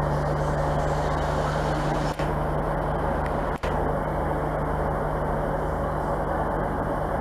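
A train running steadily with a constant low hum, typical of a diesel engine ticking over or a unit's auxiliary equipment running. There are two very short drops in level partway through.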